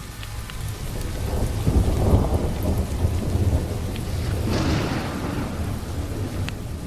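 Thunderstorm: low rolling thunder over steady rain. The rumble swells about two seconds in, and a brighter hiss rises and fades just before the five-second mark.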